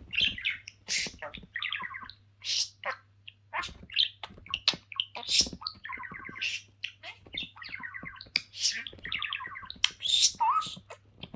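A pet bird chirping and chattering in a quick, varied string of short calls, squawks and trills.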